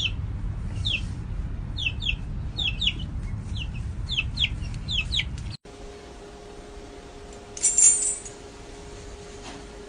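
A bird calling in a run of short, falling chirps, about two a second, over a low rumble. The chirps cut off abruptly about five and a half seconds in, leaving a steady low hum with a brief hissing burst near eight seconds.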